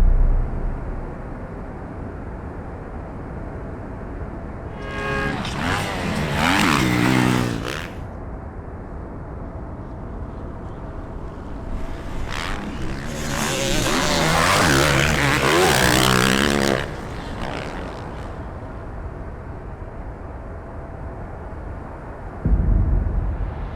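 Motocross bikes passing close twice, their engines revving up and down as the riders work the throttle and shift gears, over a steady low background rumble. Short low thumps at the start and near the end.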